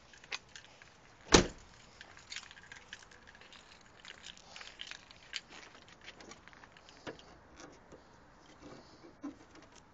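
A single sharp clunk from the wrecked Lincoln Aviator's body panels about a second and a half in, followed by scattered light clicks and rattles as parts of the car are handled.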